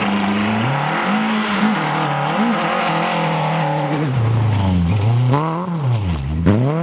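Lada rally car's engine revving hard on snow, its pitch rising and falling again and again as the throttle is worked through a sliding corner. Near the end the revs drop low, then climb again.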